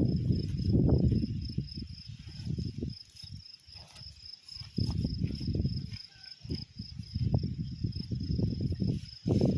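An insect trilling steadily at a high pitch, with a loud low rumbling noise over it that comes and goes, dropping away about three seconds in and again around six seconds.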